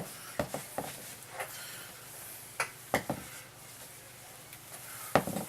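Scattered light knocks and clicks of objects being handled, about seven in five seconds, the loudest near the end.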